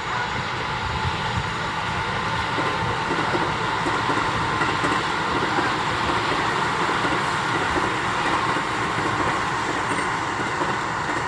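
Haruka limited express electric train running past, a steady rush of wheel and rail noise that is a little louder in the middle.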